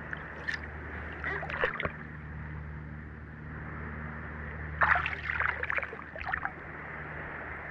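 Water splashing and sloshing in short bursts, briefly about half a second in, again around a second and a half in, and most strongly around five to six and a half seconds in, over a steady low hum.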